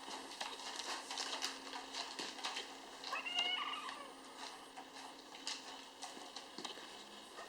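A kitten meows once, briefly, about three seconds in, among scattered light clicks.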